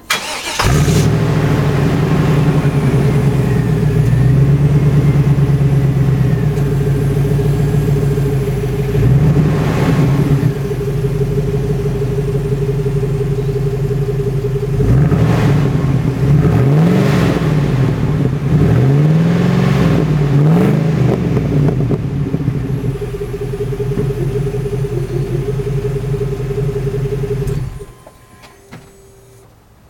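Exhaust of a 1999 Chevy Tahoe's 5.7-litre V8 through a single Magnaflow muffler and new pipes: the engine fires up, idles with a steady burble, is revved up and back down several times in the middle, then shuts off abruptly near the end.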